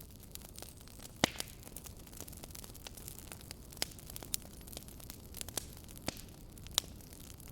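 Fireplace fire crackling: irregular sharp pops and snaps, the loudest about a second in and several more after, over a steady low hiss and rumble.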